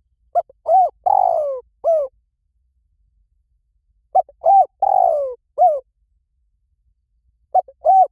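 Spotted dove cooing: two phrases of about four coo notes each, about four seconds apart, with a third phrase starting at the very end.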